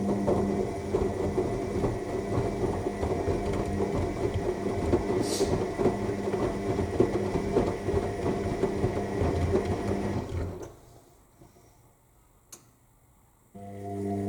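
AEG 7000 Series front-loading washing machine in its final rinse: the motor turns the drum with a steady hum and a busy rattle of tumbling laundry. The drum stops about ten seconds in, a single click sounds in the pause, and the motor starts up again near the end, as the drum reverses direction.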